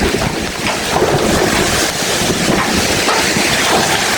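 Hurricane wind blowing hard and buffeting the microphone, a loud, steady roar.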